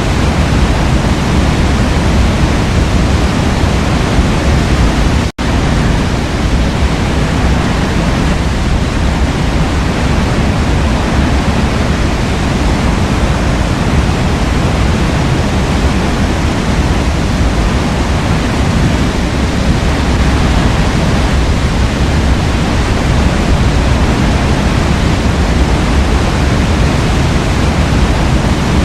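Waterfall: a steady, dense rush of falling water. It cuts out for an instant about five seconds in, then resumes unchanged.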